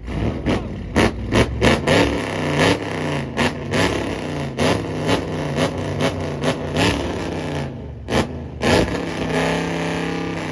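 Performance V8 car engine being revved hard again and again, its pitch climbing and falling in quick blips, with sharp cracks and pops between the revs.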